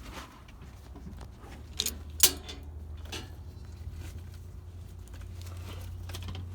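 A few light clicks, then a single sharp knock about two seconds in, over a steady low rumble.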